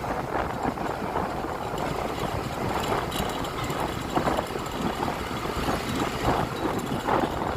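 Honda Click 125i scooter engine running at low revs, with street traffic around it.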